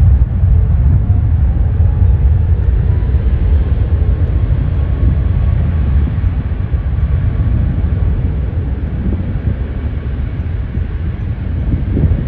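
Jet airliner engines, a loud low roar that slowly fades, with a faint steady tone above it.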